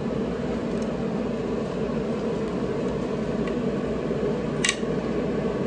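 Steady mechanical hum, with one sharp click about four and a half seconds in.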